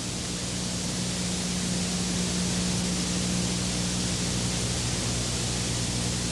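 Steady hiss with an even low hum beneath it. This is most likely a car's engine and road noise heard from inside while driving, mixed with the hiss of an old camcorder recording.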